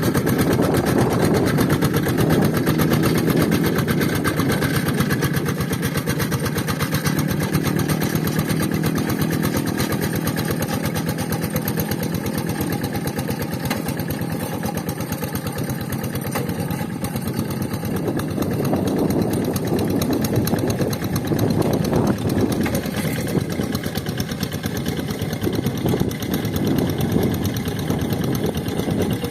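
Single-cylinder diesel engine of a two-wheel hand tractor running steadily under load, with a fast even chugging that swells slightly in level now and then.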